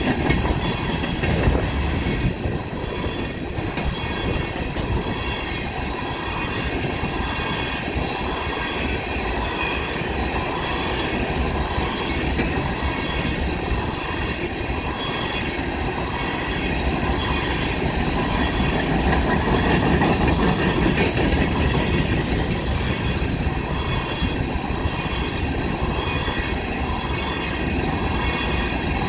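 Coal train freight cars rolling past at a steady speed, with a regular clickety-clack of wheels over rail joints and a steady high-pitched squeal of steel wheels on the rail.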